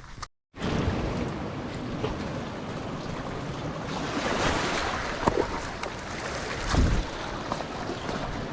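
Sea surf washing against a rocky shore, with wind buffeting the microphone; it cuts in after a brief silent gap just after the start and swells louder around the middle and again near the end.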